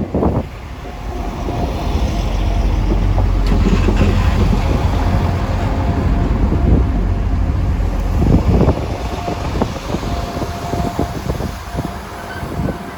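Transport for Wales Class 175 diesel multiple unit arriving into the platform: a deep rumble builds over the first couple of seconds, holds, then eases after about eight seconds as the train slows to a stand. A steady high whine runs through the middle of it.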